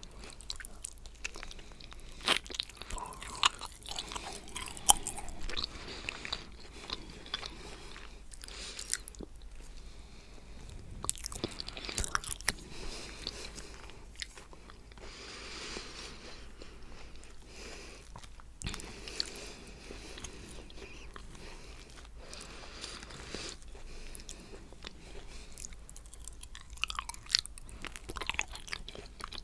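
Close-miked mouth sounds of someone eating coconut cheesecake: soft chewing with wet smacks and clicks and a little crunch from the coconut flakes, now and then a fork or spoon tapping, and breaths between bites.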